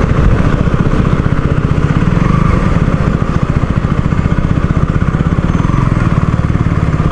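KTM Duke 200's single-cylinder engine running steadily under way, heard as an even, rapid low pulsing from the bike being ridden.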